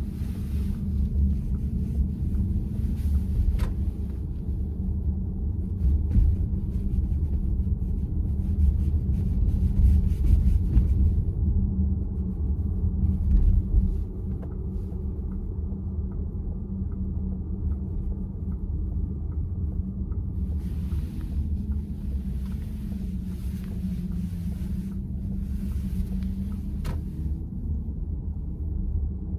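Road and tyre rumble inside the cabin of a Volkswagen ID.4 electric SUV while it is driving, with no steering clack heard. The road noise has a stronger hiss in the first third and again near the end, and a faint regular ticking runs for several seconds midway.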